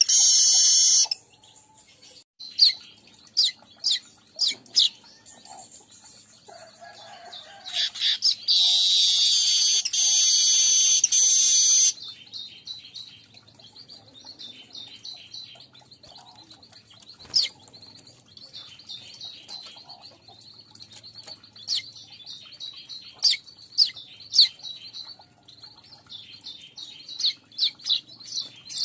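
Manyar weaver birds calling as a flock: a busy run of short high chirps and a rattling trill, broken twice by a loud, harsh, buzzy song, once right at the start and again for several seconds about eight seconds in.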